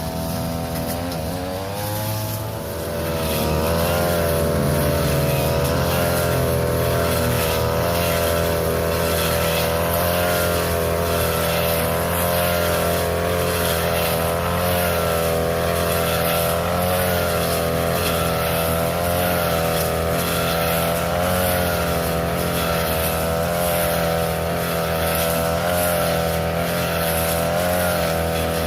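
Small petrol grass-cutting machine engine throttling up about two to three seconds in, then running at high revs while cutting, its pitch wavering slightly up and down.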